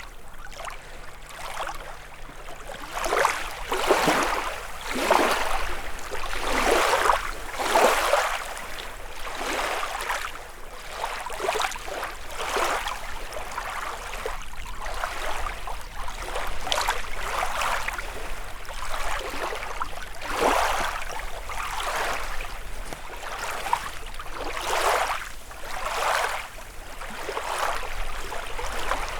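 Small lake waves lapping and splashing against the shore in irregular swells, one every second or two.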